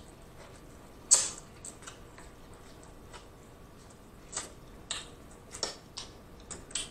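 Biting and chewing corn on the cob close to the microphone: a series of short crisp crunching clicks as kernels burst, the loudest about a second in, then smaller clicks and mouth smacks spaced irregularly through the chewing.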